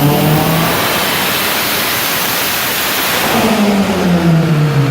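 Nissan SR20DET turbocharged 2.0-litre inline-four at full throttle on a chassis dyno. The revs climb into a loud, harsh roar at the top of the pull, then the throttle comes off about three and a half seconds in and the revs fall away.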